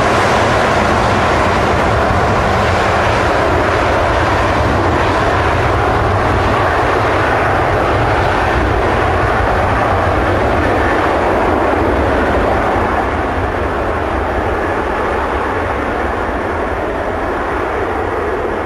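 Boeing 777-200 jet engines at takeoff power: a loud, steady rushing rumble that begins to fade about two-thirds of the way through as the airliner moves away.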